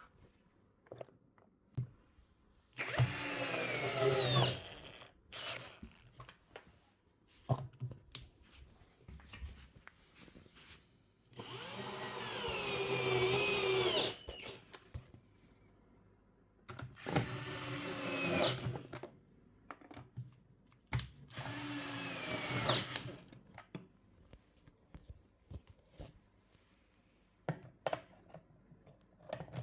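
Cordless screwdriver driving the 10 mm bolts that join the two halves of a washing machine tub: four runs of a few seconds each, the motor pitch sinking as each bolt pulls tight, with small clicks and knocks in between.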